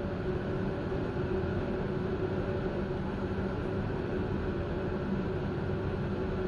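Steady hum and rumble of a standing electric passenger train heard from its rear end, with a few faint steady tones and no wheel-on-rail clatter.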